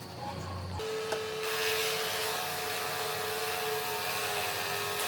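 A small electric power tool starts up about a second in and runs steadily, with a constant whine and a hiss that grows louder shortly after.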